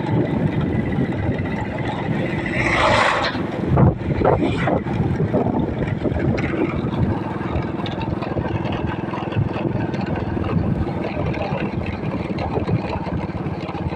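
Vehicle engine running steadily on the move along a rough road, with wind on the microphone and a couple of brief rushes of noise about three and four seconds in.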